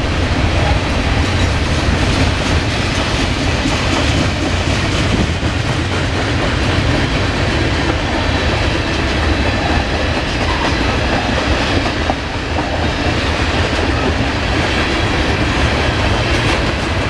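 Mixed freight train's cars rolling past: a steady heavy rumble with the wheels clacking over the rail joints.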